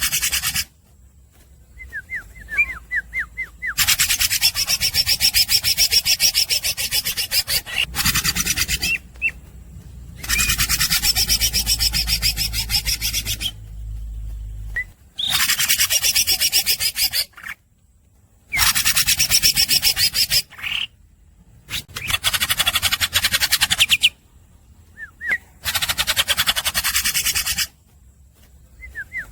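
Green leafbird (cucak ijo) singing in long runs of very fast, harsh, rasping chatter, each lasting two to four seconds, about seven runs with short pauses between them. Brief strings of sharp chirps come in some of the pauses.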